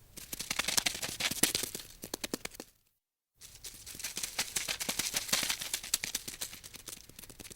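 Two runs of rapid, irregular clicking taps, the first lasting about two and a half seconds and the second, after a brief pause, about four seconds.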